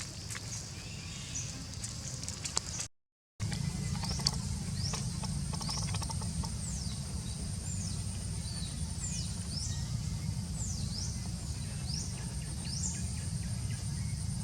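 Outdoor ambience: birds giving short, high, downward-sweeping chirps again and again over a steady low rumble, with an insect's high, rapid trill setting in about six seconds in. The sound cuts out completely for half a second near the three-second mark.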